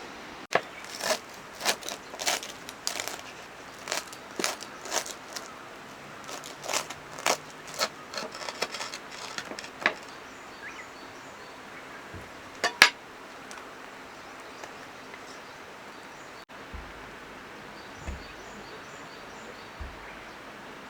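Metal and hard camp dishes and utensils being handled, a quick run of light clinks and clacks for about ten seconds, then a loud double knock a little past the middle, then only a few soft thumps, over a steady river murmur.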